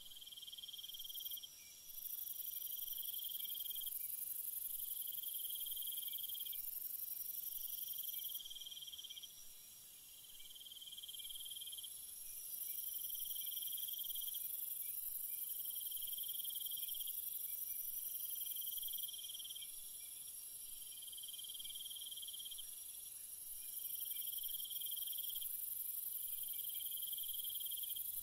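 Night insects trilling, a dense high-pitched chorus over a constant hiss. One call pulses on and off about every two seconds over a steadier higher trill.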